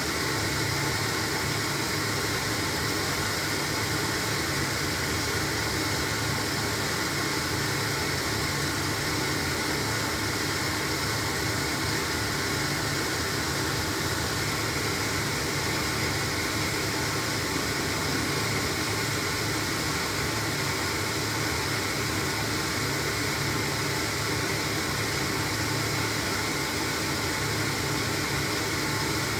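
LG washing machine running through its wash cycle, a steady whooshing noise over a low hum.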